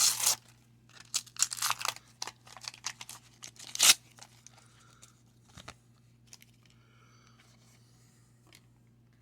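Wax paper wrapper of a 1990 Donruss baseball card pack being torn open and crinkled: a run of sharp rips and rustles through the first four seconds, the loudest near four seconds in, then faint handling.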